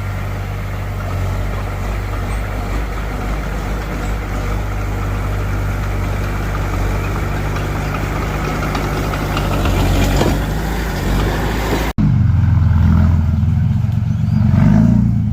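Diesel engine of heavy earthmoving machinery running steadily. About twelve seconds in, a sharp cut switches to a louder, deeper engine rumble.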